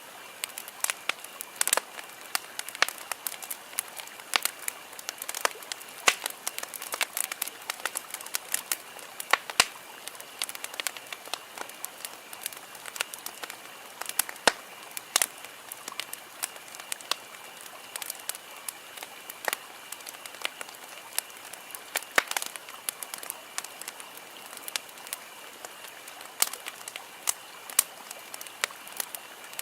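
Campfire crackling, with irregular sharp pops several times a second over a soft hiss. A faint steady high-pitched tone runs underneath.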